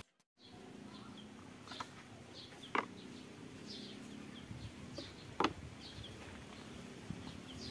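Small birds chirping over and over in the background: short, high, downward chirps over a low steady hum. A few sharp clicks cut through, the loudest about three and five and a half seconds in. The sound drops out briefly at the very start.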